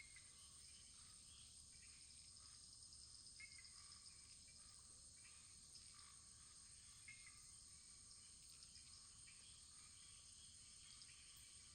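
Wood fire burning low in a fireplace, heard faintly: a steady high hiss with small, soft crackles scattered through it.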